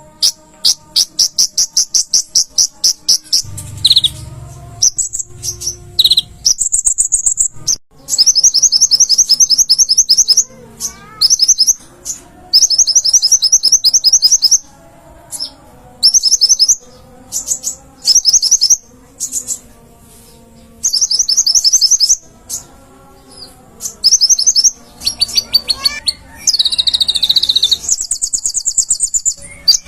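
A konin (olive-backed sunbird) singing loudly in rapid, high, buzzy trills. The phrases last one to two seconds and repeat with short pauses between them.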